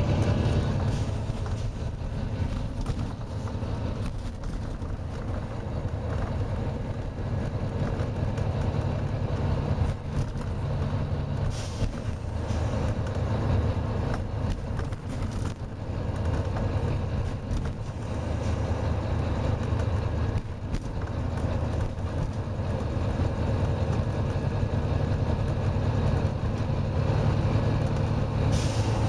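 Volvo B9TL double-decker bus's six-cylinder diesel engine running steadily under load, heard from inside the bus, with a few short air hisses.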